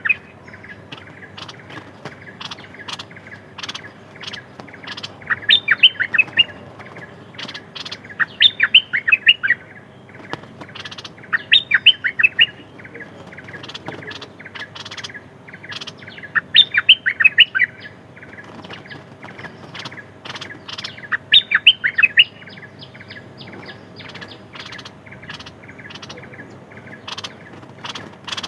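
A songbird (นกดอกแตง) singing close by: loud phrases of six to eight quick, falling whistled notes, each phrase about a second long, repeated every few seconds, with faint ticking between them.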